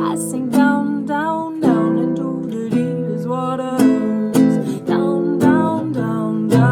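Acoustic guitar strummed in a steady rhythm, with wordless singing gliding over the chords.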